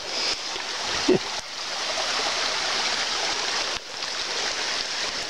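A creek's running water rushes steadily, broken by a couple of abrupt cuts.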